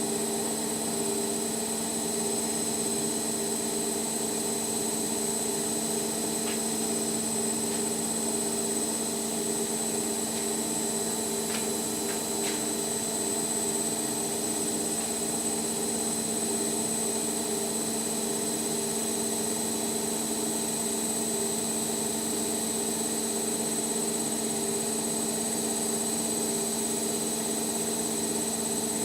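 Indesit washing machine running steadily, its motor giving a constant hum and whine at an unchanging speed, with a couple of faint ticks about midway.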